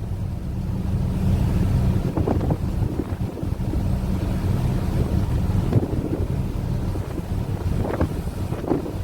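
Wind buffeting the microphone aboard a ship under way at sea: a steady low rumble.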